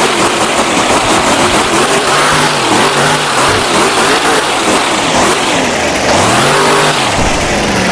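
Monster truck's supercharged big-block V8 revving hard and loud, its pitch swinging up and down several times as the throttle is blipped and the truck works through its run.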